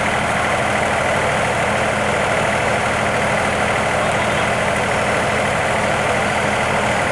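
Train's diesel engine idling with a steady, unchanging hum.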